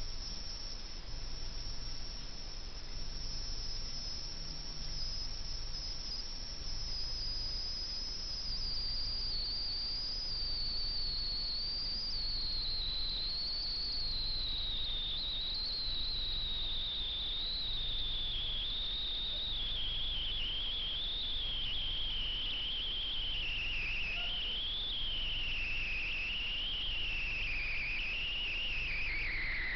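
Trail camera's own audio noise: a strange rushing hiss with a steady low hum, and over it one thin, wavering high whine that slowly falls in pitch throughout.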